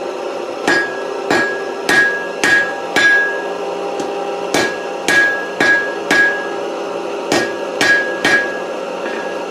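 Blacksmith's hand hammer striking hot 4140 steel bar stock on an anvil: about a dozen blows in three quick runs, each with a short high ring. A steady hum runs underneath.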